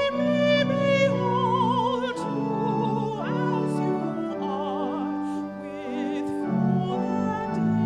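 A classical solo singer with wide operatic vibrato, accompanied by steady held chords on a keyboard.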